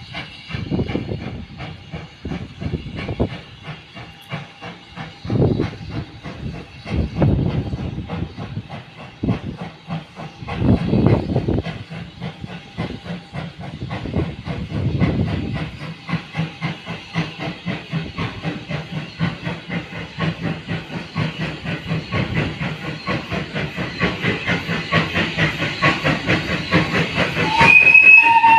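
Small saddle tank steam locomotive chuffing, its exhaust beats settling into an even rhythm that grows quicker and louder as it draws near. A short high tone sounds near the end.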